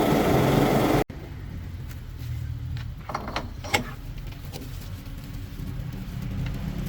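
A vehicle engine running loud and steady, cut off abruptly about a second in. A quieter low hum follows, with a few short taps and knocks about two to three seconds later.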